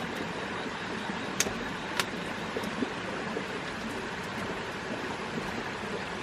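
Steady rushing background noise with two sharp knocks a little over half a second apart, about one and a half seconds in, and a fainter one shortly after.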